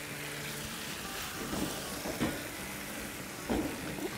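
Potatoes and eggplant sizzling in a large wok over a high flame, with a spoon scraping against the pan a few times as they are stirred.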